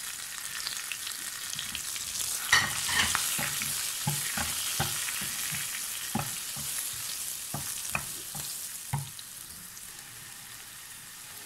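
Green chillies and ground spices sizzling in hot oil in a non-stick frying pan, the spices being fried (bhuna) before water goes in. A wooden spoon stirs, knocking and scraping against the pan from a couple of seconds in until about nine seconds. After that the sizzle goes on alone, a little quieter.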